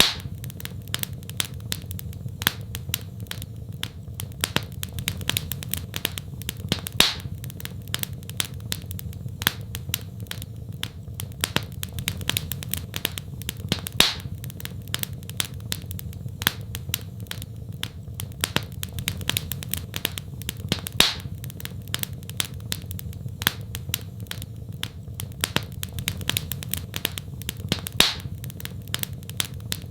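Wood fire in a fireplace crackling: a steady stream of small snaps with a louder pop about every seven seconds, over a steady low rumble.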